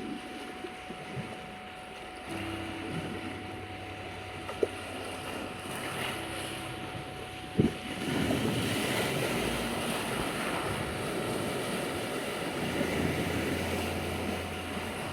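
Black Sea waves washing onto a beach, swelling louder about eight seconds in, under a steady 741 Hz meditation tone. A low steady hum runs beneath, and two sharp knocks sound about four and a half and seven and a half seconds in.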